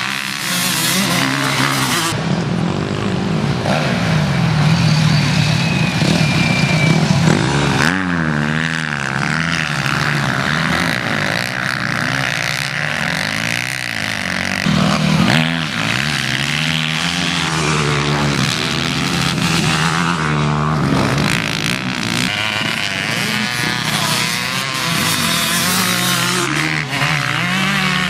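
Several motocross motorcycles racing, their engines revving up and down without pause as they ride the track and pass by.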